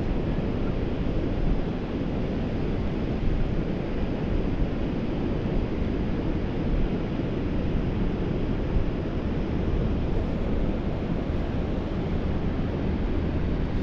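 Wind buffeting the microphone, a steady low rush of noise with no let-up.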